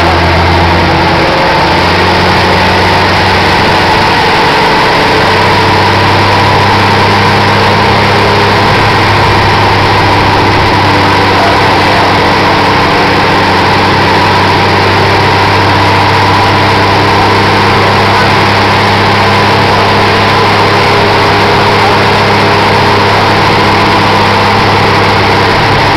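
Volkswagen Voyage engine running loud and steady on a dynamometer, holding a constant speed with no revving up or down.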